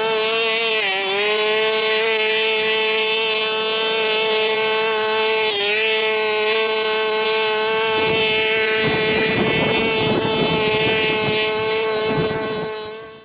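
A pressure washer's motor running with a steady high whine that sags briefly twice as it takes load. A spray hiss joins about eight seconds in, and the sound fades out near the end.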